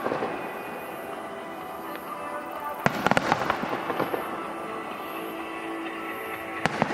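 Aerial firework shells bursting in a quick cluster of sharp bangs about three seconds in, and again just before the end, with music playing throughout.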